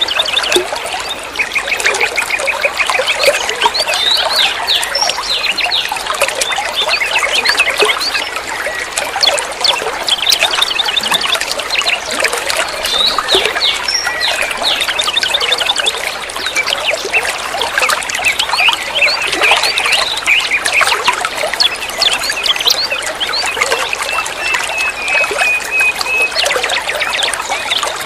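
Water trickling and splashing steadily, with many small birds chirping and twittering over it in quick, repeated notes. A fast trill comes a few seconds in, and a wavering whistled note is held briefly near the end.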